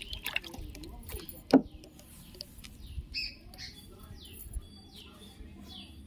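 Birdsong: a bird repeating short, high, falling chirps about twice a second from about halfway through, over faint trickling water, as in a nature-sound track. A single sharp click about a second and a half in.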